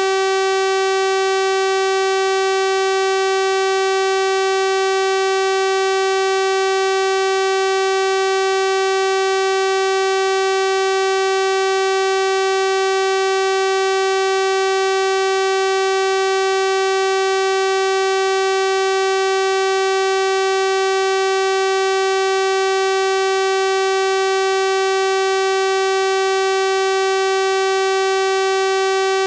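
Steady synthesized 384 Hz sawtooth-wave tone, a constant buzzy pitch with a full series of harmonics, unchanging throughout.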